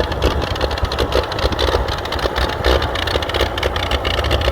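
Oliver 70 tractor's six-cylinder engine idling roughly with an uneven, stumbling beat. It is the sign of a misfire that the owner later puts down to carburetion.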